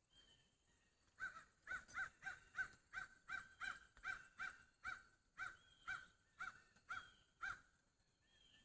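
A bird calling a long, even series of about twenty short, crow-like caw notes, roughly three a second, starting about a second in and stopping shortly before the end.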